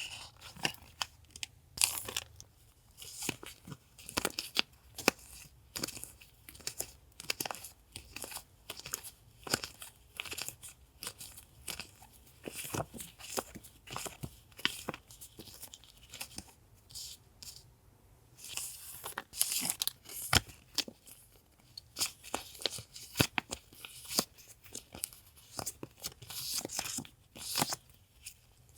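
Paper stationery and sticker packets being handled: repeated rustling, crinkling and short tearing sounds with small taps, coming in uneven bursts.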